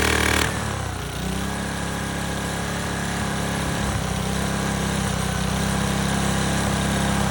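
Small single-cylinder pressure-washer engine on a lawn mower deck running. About half a second in it drops from a higher, louder speed, then runs on steadily at a lower speed.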